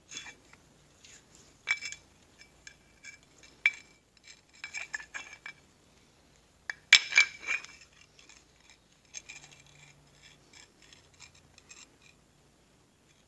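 Metal transmission parts clinking and clattering as they are handled and set down on a workbench, in short irregular bursts. The loudest cluster of clanks comes about seven seconds in.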